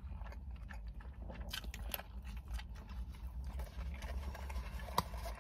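A person chewing a mouthful of chicken wrap with the mouth closed: small soft mouth clicks over a low steady hum, with one sharper click about five seconds in.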